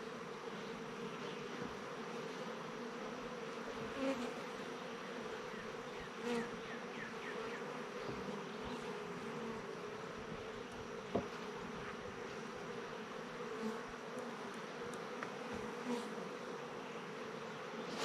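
Honeybees buzzing steadily around an opened hive, with individual bees flying close past now and then.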